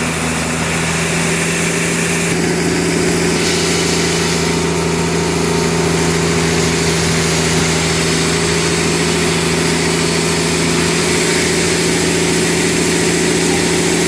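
Sawmill machinery running steadily, its engine giving an even, unbroken hum.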